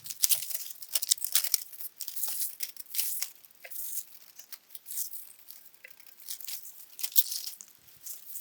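Protective plastic film and tape being peeled off the metal parts of a new camping fire pit: a run of irregular ripping and crinkling.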